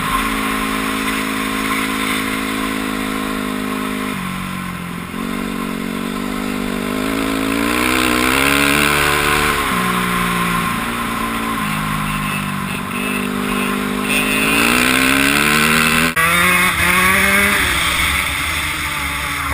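Dirt bike engine accelerating through the gears: its pitch climbs and then drops at each shift, about four, ten and sixteen seconds in.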